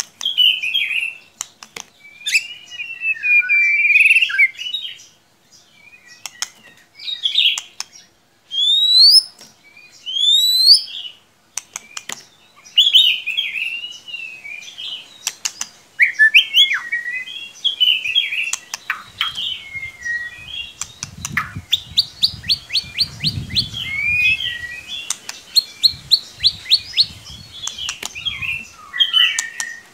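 White-rumped shama (murai batu) singing a varied song of loud whistled phrases, quick rising upslurs and sharp clicks, with rapid repeated notes in the second half. A low rumble runs under the song from about two-thirds of the way in.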